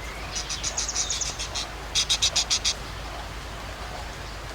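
Parrot chattering in two quick runs of short, high chirps, the second run louder and faster, starting about two seconds in.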